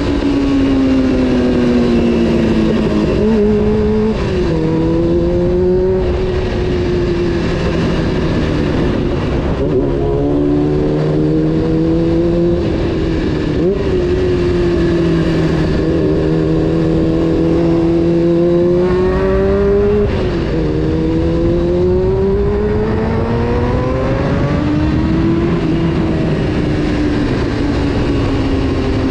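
Honda CBR600 F4's inline-four engine under way, its pitch climbing as it accelerates and dropping sharply at each upshift, several times over. Near the end the pitch falls away. Wind and road noise run underneath.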